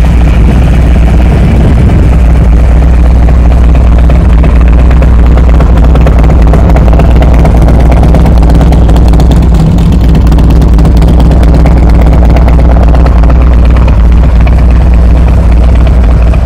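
2023 Harley-Davidson Road King Special's Milwaukee-Eight 114 V-twin idling steadily and loudly through a Thunderheader X Series exhaust.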